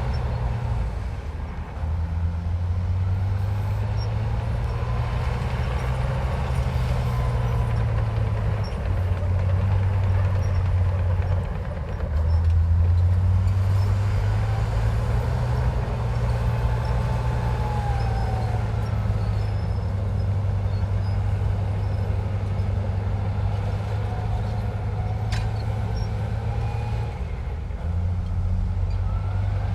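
Heavy diesel engine of a Komatsu bulldozer working steadily, its note and load shifting several times as it pushes dirt. A fainter whine above it rises and falls in pitch, and there is a single click near the end.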